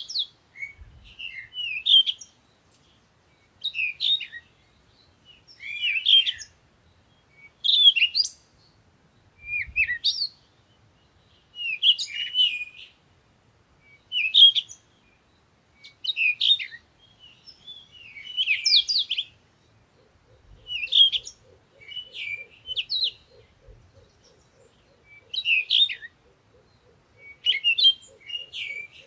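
A songbird singing short, chirpy phrases, repeated about every two seconds.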